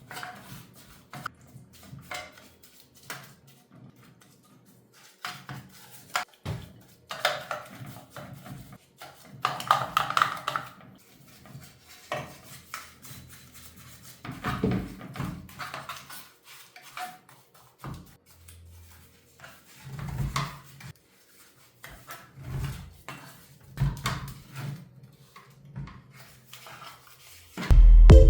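Irregular metallic clinks, knocks and taps of hand tools and motorcycle parts being handled during workshop work. Loud music cuts in just before the end.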